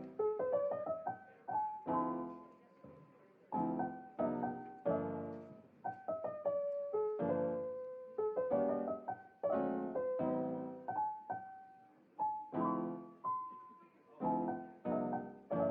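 Background piano music: gentle chords and single notes, each ringing and fading away.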